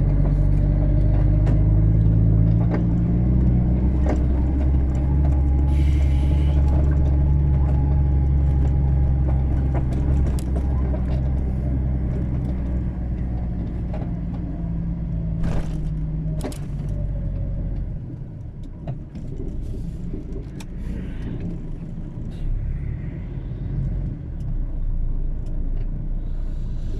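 Truck's diesel engine running with a steady low drone as the truck drives slowly in; a couple of sharp clicks come about 15 to 16 seconds in, after which the engine goes much quieter, as at a slow roll or idle.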